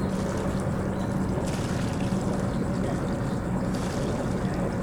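Catamaran's engine running steadily at slow docking speed, a constant low hum with water noise around the hull.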